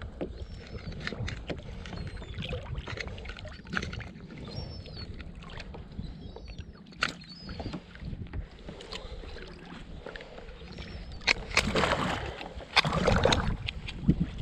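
Water sloshing against a fishing kayak, with wind on the microphone and many small knocks and clicks from handling gear on the hull. A louder stretch of splashing and knocking comes about eleven seconds in.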